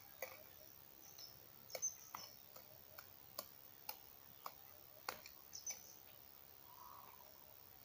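Faint outdoor quiet broken by irregular sharp clicks, about two a second, with a few short high chirps from small birds around two seconds in and again past the middle.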